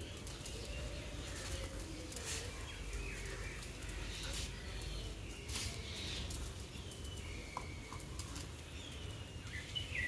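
Birds chirping now and then, in short high calls, over a steady low background rumble, with a few brief noises in between.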